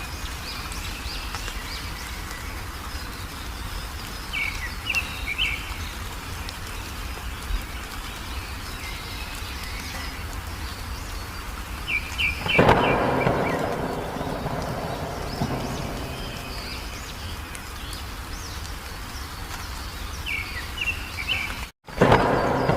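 Songbird chirping in short, repeated phrases over a steady background hiss. About halfway through, a sudden loud crash fades away over a few seconds, and a second loud burst comes near the end.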